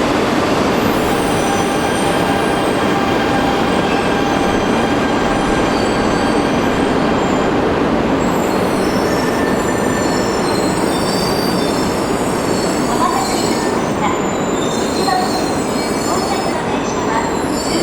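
Coupled E3 and E2 series Shinkansen pulling into a station: a loud, steady rumble of the train with the thin whine of its VVVF inverter motor drives. From about halfway through, high-pitched wheel and brake squeals come in as it slows to a stop.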